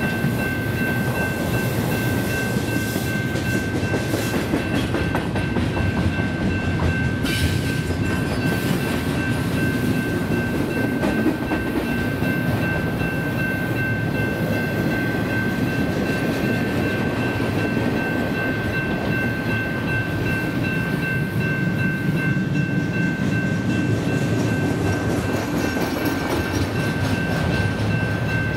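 BNSF double-stack intermodal train's container well cars rolling past: a steady rumble of steel wheels on the rails, with a thin high-pitched ringing tone held over it.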